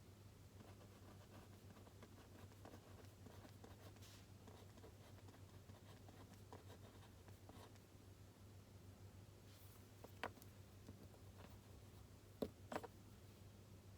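Faint scratching of writing on paper at a desk, with a few sharp clicks about ten seconds in and twice near the end, over a low steady hum.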